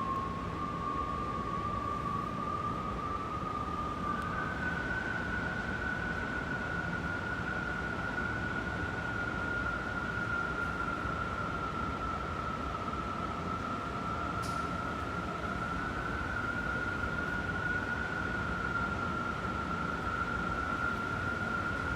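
Strong wind howling: a single whistling tone drifts slowly in pitch over a steady rushing noise, stepping up to a higher note about four seconds in.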